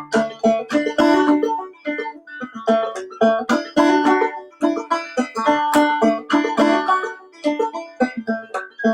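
Clawhammer banjo playing an old-time tune: rapid, rhythmic plucked notes ringing out over a steady drone.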